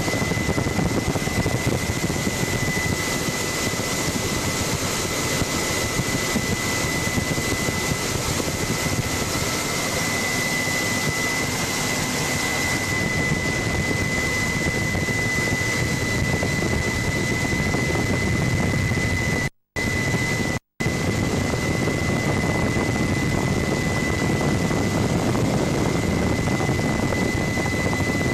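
Helicopter running steadily in flight, heard from on board: a constant rushing drone with a steady high whine. The sound cuts out twice briefly about twenty seconds in.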